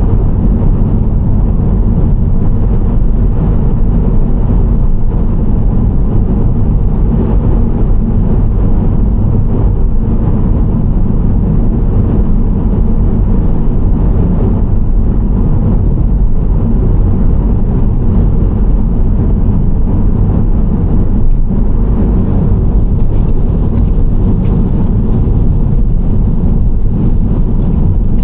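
Nissan Serena C25 minivan driving at steady speed: a constant rumble of tyres on the road and the running engine. About three-quarters of the way through, a faint higher hiss and a few light ticks join in.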